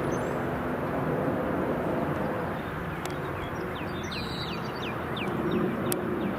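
Steady rumble of an aircraft's engines in flight. A small bird sings a quick series of short descending notes over it in the middle.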